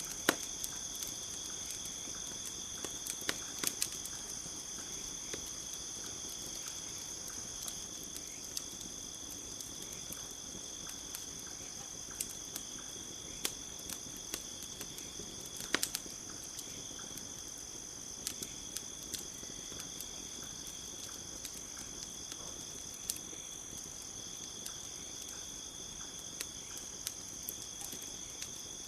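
Campfire crackling with irregular sharp pops, one louder pop about halfway through, over a steady high-pitched chorus of night insects trilling on two pitches.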